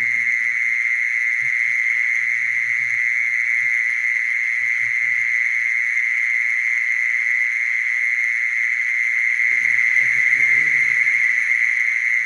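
Mole cricket singing: one continuous, steady, high trill that does not break or change pitch.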